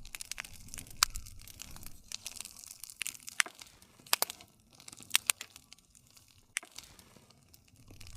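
Wood fire crackling: irregular sharp snaps and pops of burning wood over a soft hiss and low rumble of the flames.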